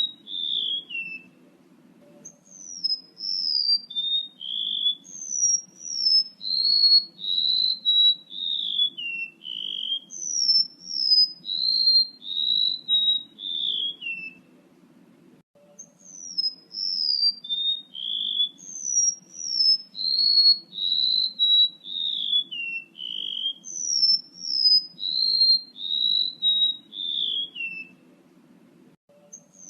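Recorded song of a male rementuk laut bird used as a lure: a run of short, clear whistled notes, about one a second, stepping down from high to lower pitch across each phrase. Two phrases of about twelve seconds each, with a short pause between, over a faint low hum.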